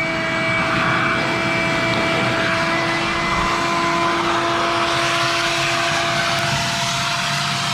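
A motor running steadily: a constant droning tone with a hiss over it, the hiss growing a little stronger about five seconds in.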